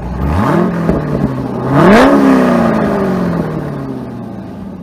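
Car engine revving up in two steps, the second climb the higher and loudest, then its pitch slowly sinking as the sound fades out.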